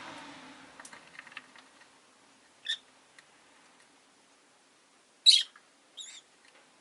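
Rosy-faced lovebirds giving three short, sharp chirps, the loudest about five seconds in. Faint street noise fades out in the first second or so, with a few small clicks.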